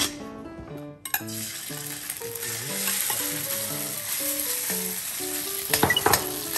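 Crushed shumai sizzling as it fries in hot salad oil in a wok. The sizzle starts about a second in, and a metal ladle scrapes and knocks against the wok a few times near the end. Background music with a melody plays throughout.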